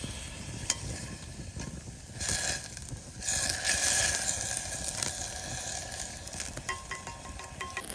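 Food sizzling in a pan over a campfire, a steady frying hiss that swells louder between about two and five seconds in.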